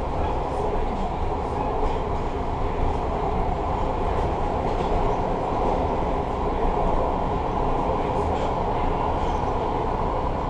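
MARTA rapid-transit rail car running along the track, heard from inside the passenger cabin: a steady running noise of wheels on rail.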